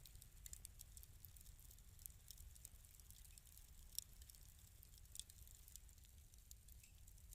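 Wood fire in a fireplace crackling softly: scattered small pops and snaps over a faint low rumble, with a sharper pop about four seconds in.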